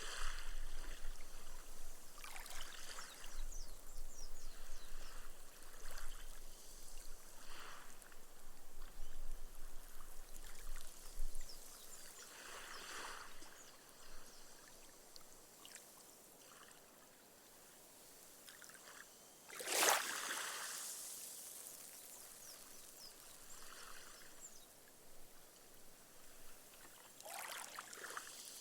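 Small, gentle sea waves lapping up a sandy shore. Each wash soaks into the sand with a fine fizz of bursting foam, and one sharper, louder wash comes about two-thirds of the way through.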